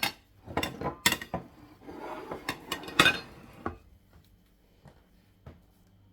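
Kitchen bowls and utensils clinking and clattering as they are handled. There is a quick run of sharp knocks and clinks for about the first four seconds, then only a few faint ticks.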